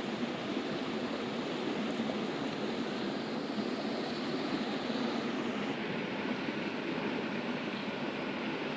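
Steady rushing of a flowing river, with a slight dulling of its hiss about six seconds in.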